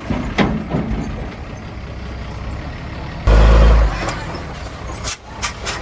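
Heavy diesel earthmoving machinery running, with sharp metallic clanks near the start and end and a loud low rumble lasting about half a second a little past halfway.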